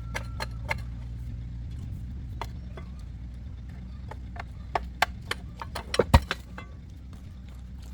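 An engine running steadily at idle, with scattered sharp metallic knocks and clinks of work going on around it, the loudest a few knocks about six seconds in.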